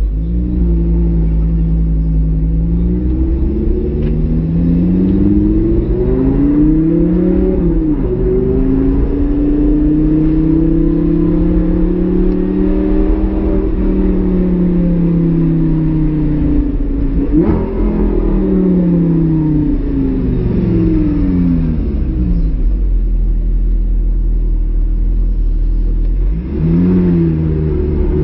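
Lamborghini supercar's engine heard from inside the cabin, driven hard. Its pitch climbs, drops suddenly as a gear is changed and climbs again, several times over, and in between it sinks and swells as the car slows and speeds up.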